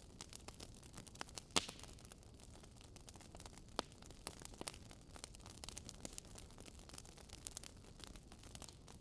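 Campfire burning with a steady crackle: many small snaps and pops over a low hiss, with two louder pops about a second and a half in and near four seconds.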